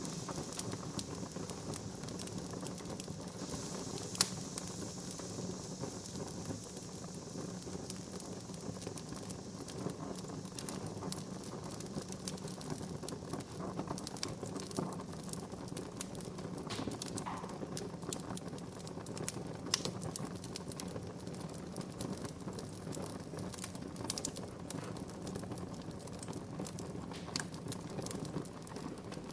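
Wood fire burning in a fireplace: a steady low rush of flames with frequent crackles and sharp pops from the burning wood, one especially loud pop about four seconds in.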